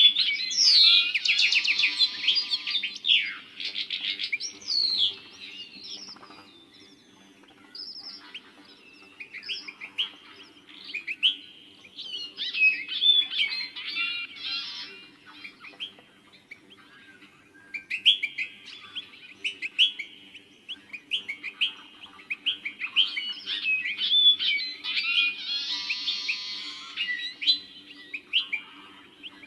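Small birds chirping and twittering in quick, busy bunches of high notes, with short lulls between them.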